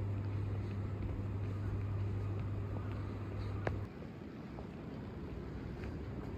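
Steady low vehicle hum over a rumbling background noise. The hum cuts off abruptly with a click a little under four seconds in, and the rumble carries on.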